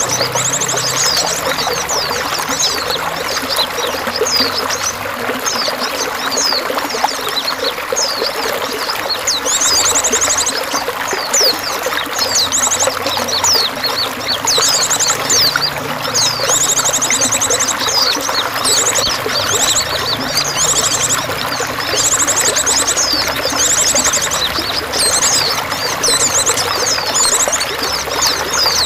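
Water pouring and trickling steadily, with many small birds chirping and giving fast buzzy trills high above it throughout.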